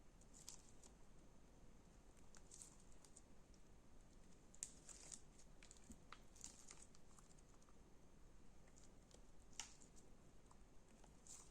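Slime being worked by hand: faint, irregular crackles and small sticky pops, with a couple of slightly louder pops.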